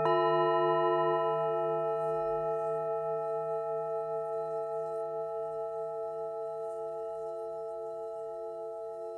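Tibetan singing bowls ringing: a bowl is struck right at the start, adding new tones to ones already sounding, and the chord rings on with a slow pulsing waver, fading gradually.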